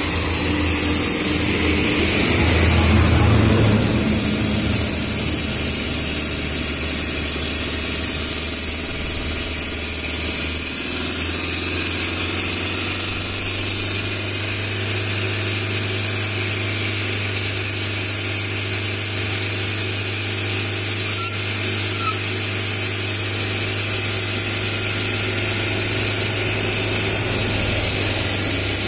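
Chevrolet Spark's petrol engine idling steadily while its cooling system is being flushed, a little louder for a couple of seconds near the start.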